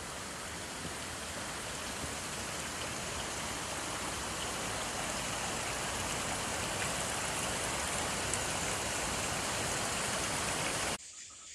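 Waterfall: a steady rush of falling water, growing slightly louder and cutting off abruptly near the end.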